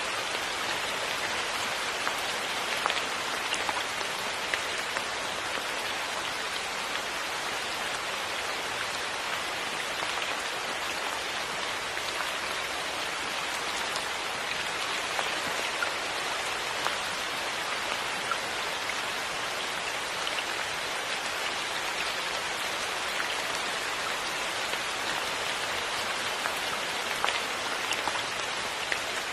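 Steady rain falling: an even hiss with scattered louder drop taps.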